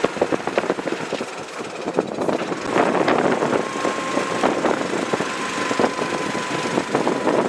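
Zip-line trolley pulleys running along a steel cable: a continuous rattling clatter, joined by a steady whine from about three and a half seconds in.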